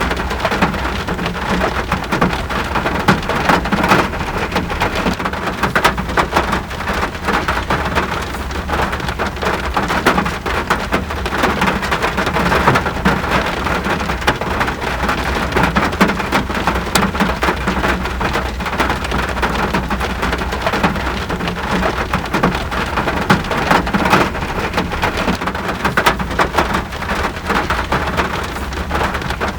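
Steady rain falling, with a dense crackle of close-set drop impacts over an even hiss and a low background rumble.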